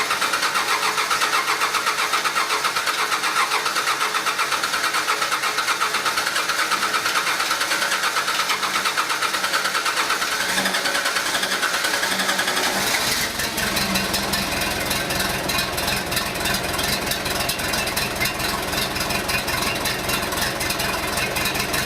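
Cold diesel truck engine cranking on the starter for about thirteen seconds, then catching about two-thirds of the way in and running steadily.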